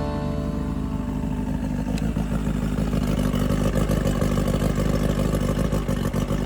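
1992 Mercury 40 hp four-cylinder outboard motor running steadily, with a fast, even pulse.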